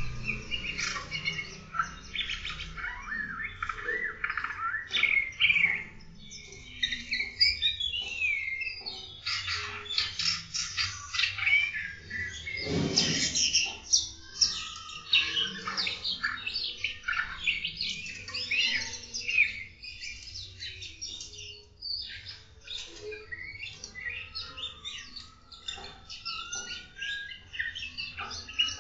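Many small birds in an aviary chirping and singing at once, a dense tangle of overlapping high chirps and warbles, with one louder call about halfway through.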